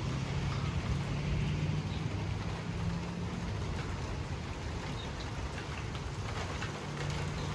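Rain and wind of a severe thunderstorm as it picks up again, over a steady low hum from a vehicle's running engine.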